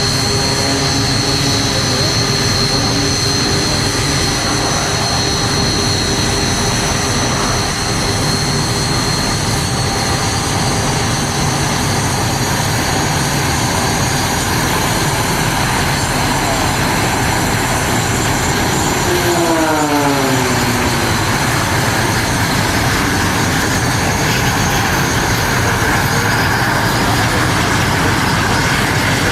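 Jet aircraft engines running steadily, with a high thin whine over a loud rush. About twenty seconds in, a short pitched sound slides down in pitch.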